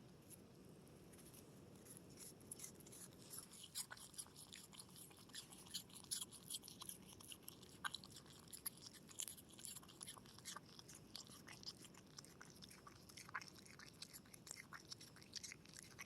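Opossum chewing and crunching food: faint, irregular crunches and clicks of its teeth, starting about two seconds in and running on in quick clusters.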